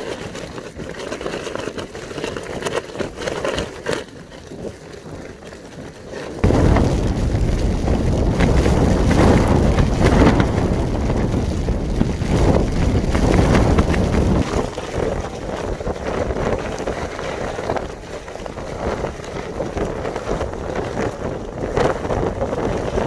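Strong storm wind buffeting the microphone. A heavy gust comes in suddenly about six seconds in, is loudest for the next eight seconds or so, then eases a little but keeps blowing.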